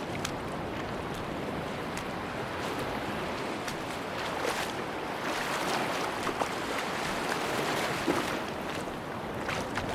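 Sea surf washing onto a beach: a steady rushing wash that swells a little past the middle and eases off near the end, with faint splashy clicks throughout.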